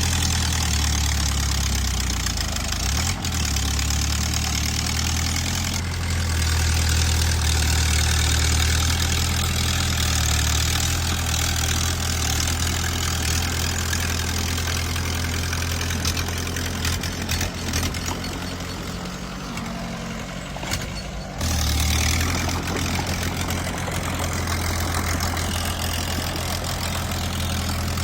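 Small bulldozer's diesel engine running steadily under work. It eases off about two-thirds of the way in, then picks up sharply again.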